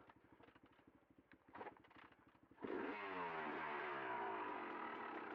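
Enduro motorcycle engine ticking over quietly at idle, with a couple of clatters, then revved hard again about two-thirds of the way in and running loud with its pitch rising and falling under throttle.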